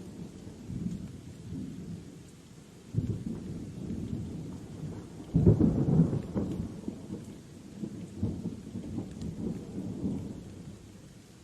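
Thunder rumbling over steady rain. The rumble swells about three seconds in and is loudest around five and a half seconds in, then rolls on more softly.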